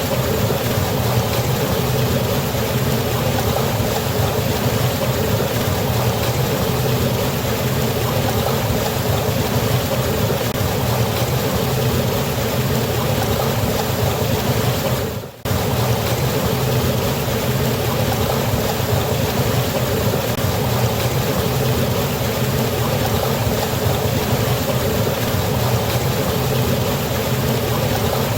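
Waterfall on a river: a steady, loud rush of falling water with a deep rumble under it. The sound drops out for a split second about halfway through, then resumes unchanged.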